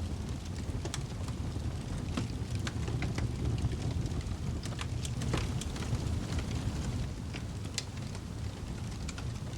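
Wood fire burning in a fireplace: a low steady rumble of the flames with frequent irregular sharp crackles and pops of the burning wood.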